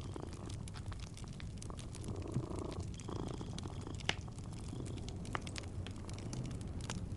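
A cat purring steadily under the crackle of a wood fire, with scattered sharp pops and snaps, two of them louder, about two and a half and four seconds in.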